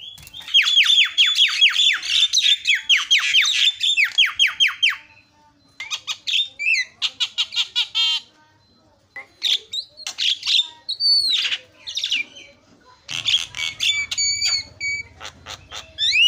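A jalak kebo (Javan myna) singing. It opens with a fast run of sharp falling whistled notes, about six a second, then gives a mix of whistles, squawks and rising and falling calls with short pauses.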